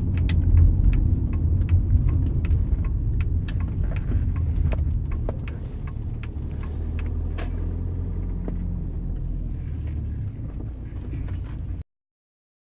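Volkswagen Passat running, a steady low rumble with scattered, irregular light clicks and rattles over it; the sound cuts off abruptly near the end.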